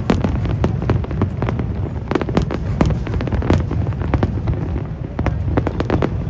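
Fireworks display: a dense, continuous run of bangs and crackles over a steady low rumble.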